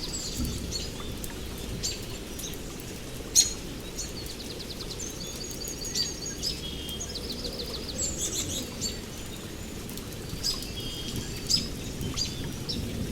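Several songbirds chirping and trilling, with short sharp calls and quick rattling trill runs, over a steady low background rumble.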